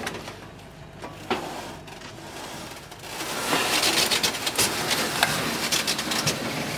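Gravel crunching with scattered clicks and rubbing, getting louder about three seconds in.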